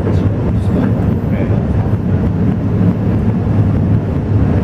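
Alishan Forest Railway train running, heard from inside the carriage as a steady low rumble.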